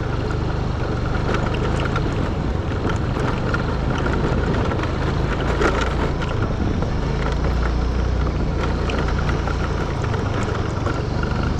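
Motorbike engine running steadily while riding, with road noise and small rattles and knocks from the rough track.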